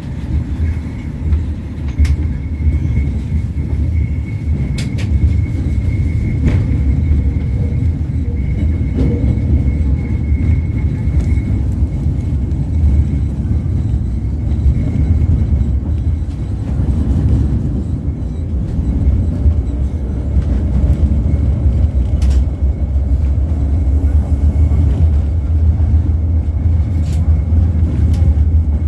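LVS-86K articulated tram running along the line, heard from inside the passenger saloon. A steady low rumble is broken by occasional sharp clicks, and a faint high tone sits above it.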